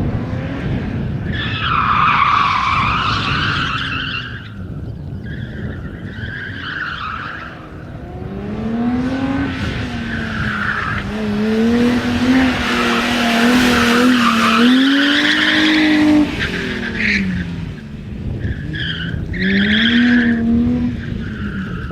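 BMW E30 drifting: its tyres squeal in several long stretches while the engine revs climb, hold high and drop between them.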